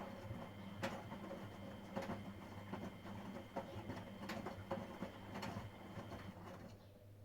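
Miele Professional WS5436 washing machine turning its drum mid-wash: a steady motor hum and faint whine with irregular clicks and knocks, the drum stopping shortly before the end.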